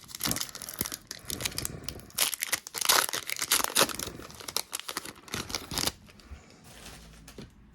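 Foil Pokémon booster pack wrapper being torn open and crinkled, with irregular crackling that dies down about six seconds in.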